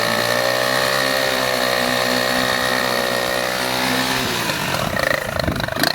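Car engine held at high, steady revs during a burnout. About four seconds in the pitch drops as it comes off the throttle, and the engine turns rough and uneven.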